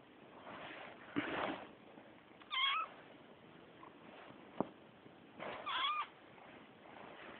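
A kitten meowing twice, two short meows with a wavering pitch about three seconds apart. Between them come soft rustling sounds and one sharp click.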